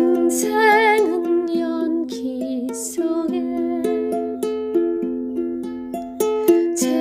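Ukulele playing a gentle tune in plucked chords and single notes, with a wavering melody line about a second in.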